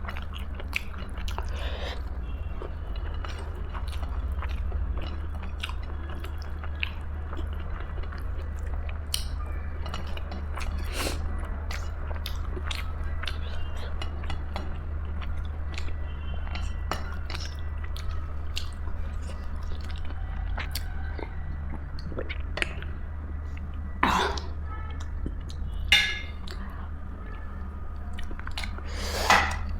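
A person chewing and eating close to the microphone: wet mouth clicks and smacks over a steady low hum. Three louder, sharp bites or smacks come in the last six seconds.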